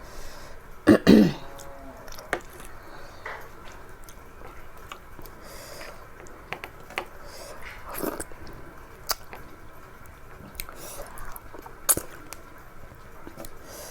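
Person eating at close range: scattered wet chewing and lip-smacking sounds with small clicks. About a second in there is one loud, short cough-like throat sound.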